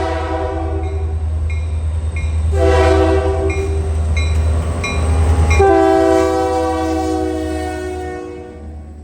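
Union Pacific locomotive air horn sounding a chord: a blast that ends about a second in, a short blast around three seconds in, then a long blast that fades away near the end, over a steady low rumble of the train. Between the blasts a bell rings about twice a second.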